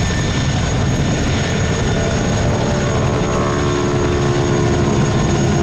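Modified Boeing Stearman biplanes flying a display, their 450 hp radial engines and propellers running steadily and loudly, with the engine note growing clearer about halfway through.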